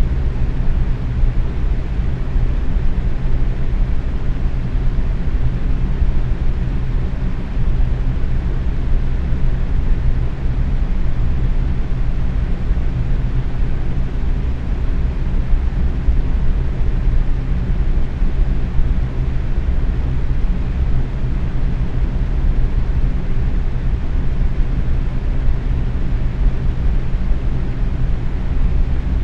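Box fan running steadily at medium speed: an even airy rush with a low motor hum underneath.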